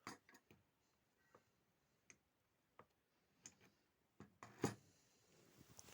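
A few scattered light clicks and knocks of small parts being handled, spaced about a second apart, with one louder knock about two-thirds of the way through.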